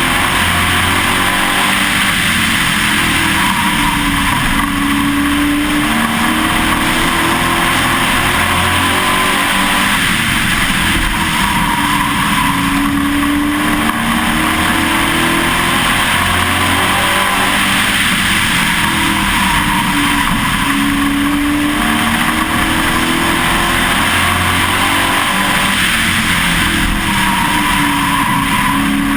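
Pro Truck race truck's engine heard from on board, running hard at racing speed. Its pitch climbs and falls back again in a steady cycle about every four to five seconds, lap after lap on the short oval.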